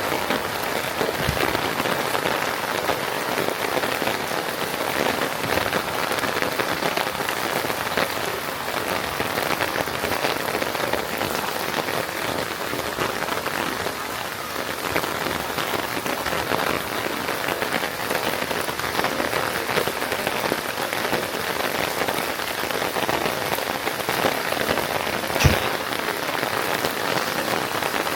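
Steady rain falling, a dense even patter of drops with scattered small ticks. A single sharp tap stands out about 25 seconds in.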